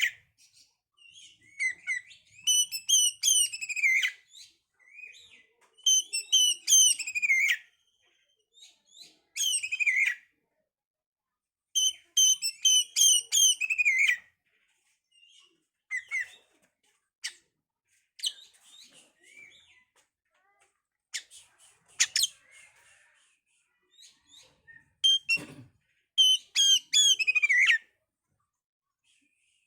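Oriental magpie-robin (kacer) singing: loud phrases of rapid, ringing whistled notes that slide downward, each lasting one to two seconds, repeated with pauses and short scattered chirps in between.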